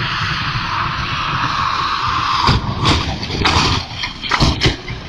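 Steady road and wind noise from a moving vehicle, then a run of loud bangs and knocks from about halfway in, like a vehicle crash.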